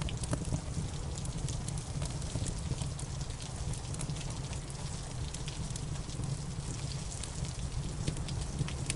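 Steady rain with a low rumble, mixed with a fireplace fire crackling; sharp crackles come scattered throughout, thicker near the start and the end.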